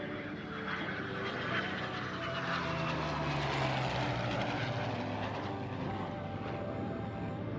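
Heritage-flight formation of a P-51 Mustang and an F-22 Raptor passing by: the aircraft noise swells to a peak about three to four seconds in, with the engine note falling in pitch, then fades. Background music runs underneath.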